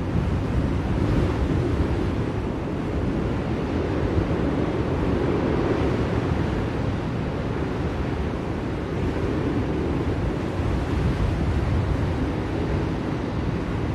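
Blizzard wind blowing steadily, a deep even rush that swells and eases gently every few seconds.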